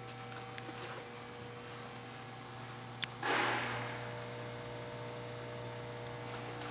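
Steady electrical mains hum. About three seconds in there is a sharp click, then a short burst of noise that dies away.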